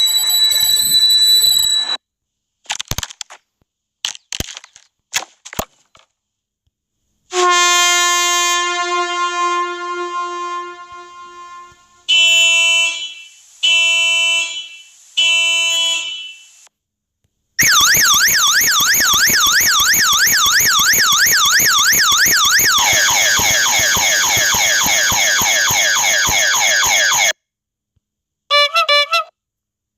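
A run of separate synthetic annoying sound effects: a few sharp clicks, then a long horn-like note that fades away, three short horn-like honks, and a fast-warbling electronic siren tone that changes its pitch pattern about halfway through before cutting off, ending with a brief chirp.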